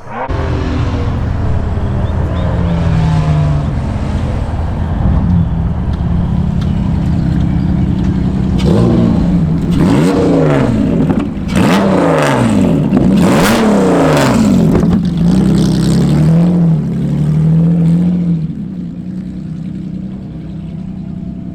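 Race car with a swapped-in Honda J35A4 V6 running under load, its engine note climbing and dropping again and again through the middle of the stretch as it is driven hard and shifted, then settling to a quieter, steadier running sound near the end.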